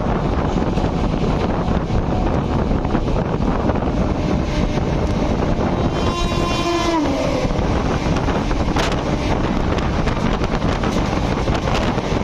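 Steady rush of wind and rumble of a moving train heard from an open coach door in rain. About six seconds in a train horn sounds for just over a second, its pitch sagging at the end, and a single sharp knock comes about two seconds later.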